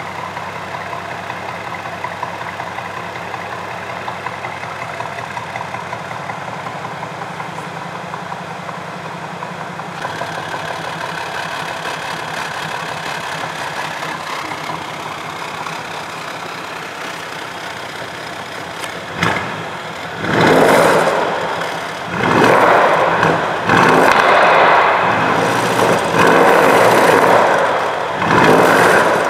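Brabus 850 S-Class's twin-turbo V8 idling steadily through its quad exhaust tips. In the last ten seconds it gives a quick blip, then is revved four times in quick succession, each rev held a second or two before dropping back.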